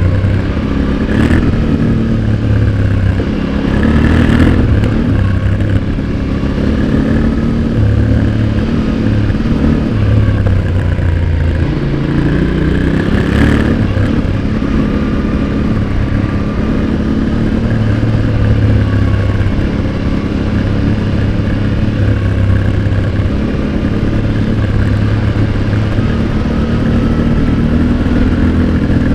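Yamaha Ténéré 700's 689 cc parallel-twin exhaust recorded close, under hard riding, its pitch rising and falling as the throttle opens and closes. A few short knocks come about a second in, at about four seconds and at about thirteen seconds.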